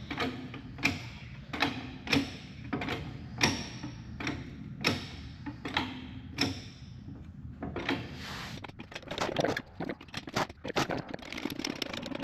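A series of sharp knocks at an even pace, about one every three quarters of a second for roughly seven seconds, then a stretch of irregular clatter.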